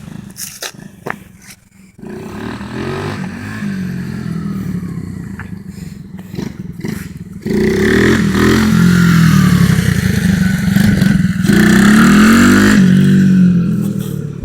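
Coolster 125 cc dirt bike engine running and revving up and down, preceded by a few clicks in the first two seconds. It gets much louder about halfway through, dips briefly, then fades out at the end.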